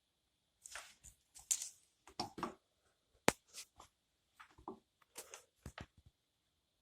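Irregular clicks, taps and rustles of small parts being handled at a workbench, with one sharp click a little past three seconds in.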